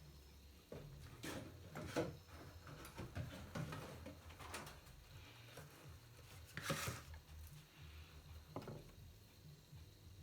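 Light clicks, taps and rustles of wires and small tools being handled while twisting wires together, with sharper taps about two seconds and seven seconds in, over a low steady hum.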